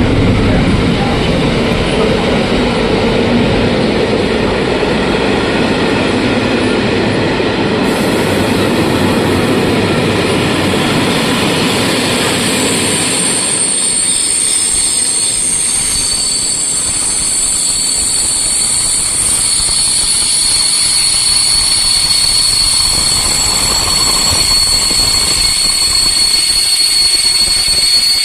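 An EU07-hauled TLK passenger train rolling with a steady rumble. About halfway through, the rumble drops away and a steady high-pitched metallic wheel squeal takes over and holds.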